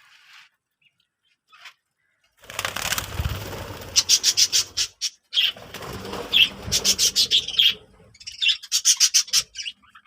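Birds flapping their wings, with rapid runs of short, high chirps, starting about two and a half seconds in.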